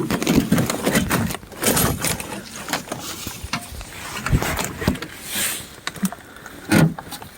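Irregular knocks, clunks and scrapes of a rusted old Ford truck door being worked, with a couple of short low creaks, near the start and again near the end; the door is frozen stuck.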